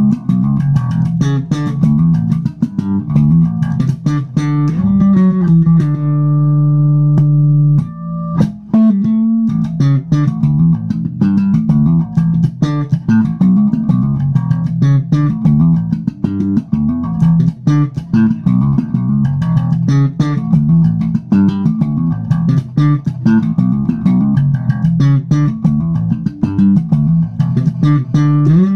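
Electric bass guitar playing a busy line of quick plucked notes, with one note held for about two seconds about a quarter of the way in before the line picks up again.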